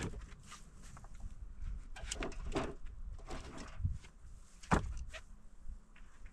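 Irregular crunches and knocks of sticks and brush being handled while gathering firewood, with one sharper knock about three-quarters of the way through.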